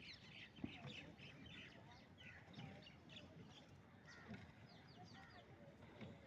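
Faint chorus of many small birds chirping, short overlapping calls throughout, with one sharp tick a little under a second in.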